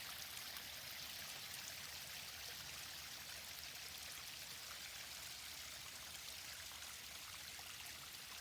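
Small forest waterfall running steadily: an even hiss of falling, splashing water.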